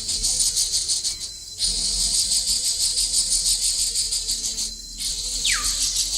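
Insect chorus, a loud high buzzing that pulses rapidly, cutting off briefly twice; near the end two quick whistles sweep sharply downward.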